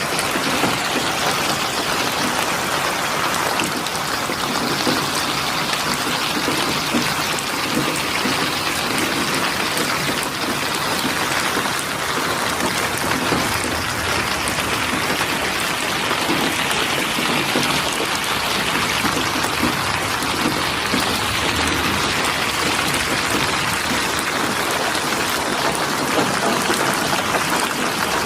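Steady rainfall, a continuous even patter of raindrops with running, trickling water.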